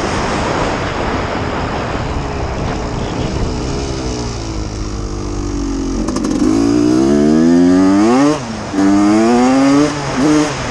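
1989 Honda CR250's single-cylinder two-stroke engine running, then revving up, its pitch climbing from about six seconds in and dropping off briefly twice near the end.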